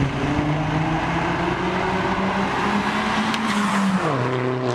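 Car engine accelerating hard on the road, its note climbing steadily. About four seconds in the pitch drops sharply as the car passes close by.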